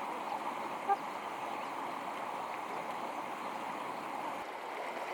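Steady rush of a flowing stream, with one short high chirp about a second in.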